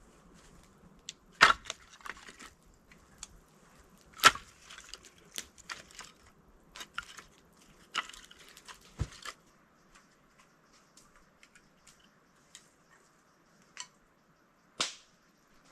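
Scattered sharp knocks and cracks of wood being handled and worked, two of them loud, about one and a half and four seconds in, among lighter clicks and rustles. The activity thins out to a few faint ticks in the second half.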